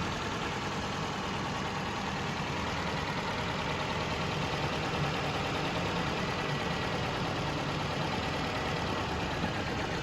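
Toyota Corolla GLI's four-cylinder engine idling steadily.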